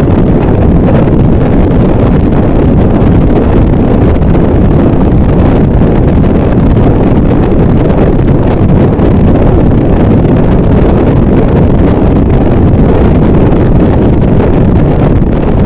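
Harsh noise wall: a loud, unchanging wall of dense distorted noise, heaviest in the low and low-middle range, with no breaks, beats or distinct hits.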